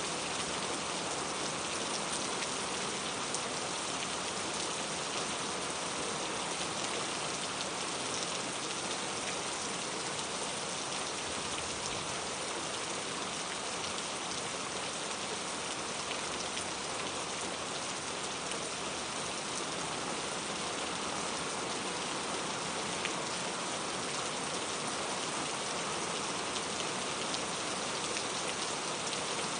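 Steady rain falling on a surface, an even patter of drops.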